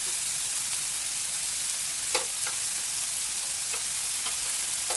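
Food sizzling steadily on a hot cooking surface, with a few light clicks scattered through, the sharpest about two seconds in.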